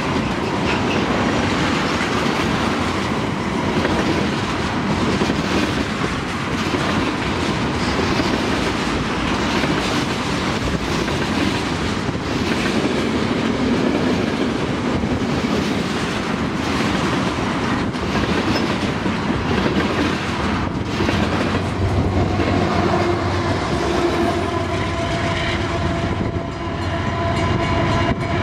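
Freight train of loaded ethanol tank cars rolling past: a steady rumble and clatter of steel wheels over the rail joints. In the last several seconds a steady engine drone with a few held tones joins in, as the rear distributed-power locomotive, a CP GE AC4400CW diesel-electric, goes by.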